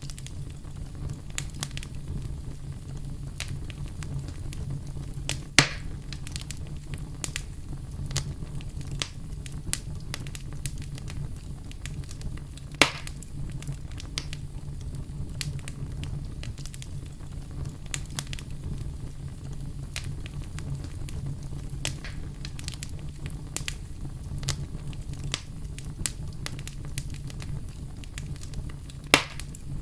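Wood fire burning, with a continuous scatter of small crackles over a steady low rumble, and three louder pops: one about five seconds in, one near the middle and one near the end.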